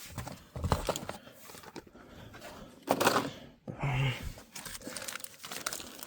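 Rummaging through odds and ends: rustling and crinkling of loose items and packaging with a few knocks, the loudest burst about three seconds in.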